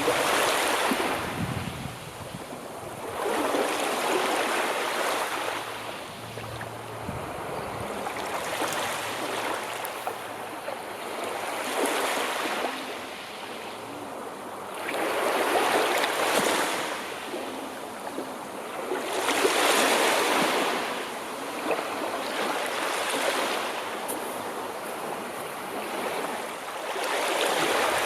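Sea waves breaking and washing on a shore, the surf swelling and falling back in a slow rhythm, with a wave every four seconds or so.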